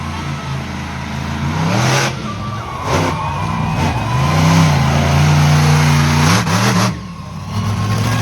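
Monster truck engine revving hard, its pitch climbing and falling several times, with quick blips of the throttle near the end before it falls back.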